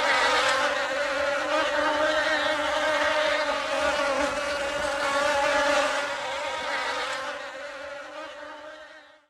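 A flying insect buzzing: one steady, continuous drone that fades away over the last few seconds.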